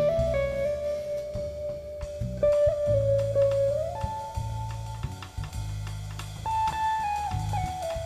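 Jazz trio of guitar, cello and drums playing a slow tune, with long held melody notes stepping up and down over low accompaniment and light drums.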